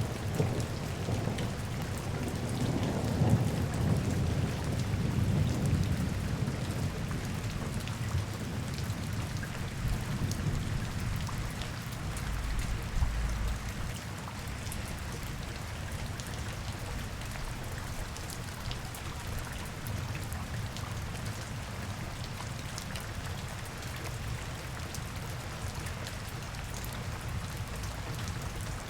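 Steady rain falling on street surfaces, with scattered drop ticks. A low rumble sits under it for the first several seconds and then eases off.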